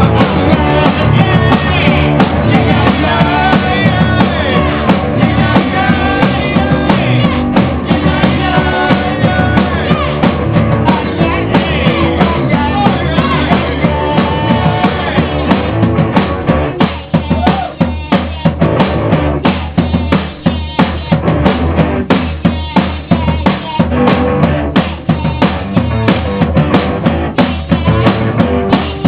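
Rock band playing loud instrumental music with the drum kit up front: bass drum, snare and rimshots. About sixteen seconds in the fuller sound thins out, leaving mostly sharp drum hits with short gaps between them.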